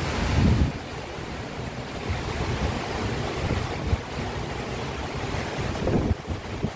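Heavy rain falling with strong wind, gusts buffeting the microphone in low rumbles, loudest near the start and again about six seconds in.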